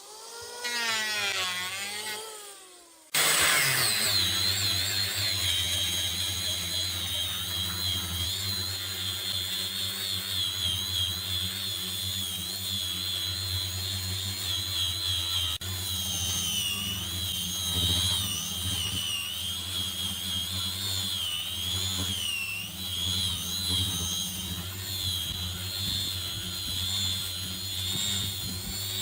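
An electric power tool cuts in about three seconds in and runs steadily with a high whine whose pitch wavers slightly.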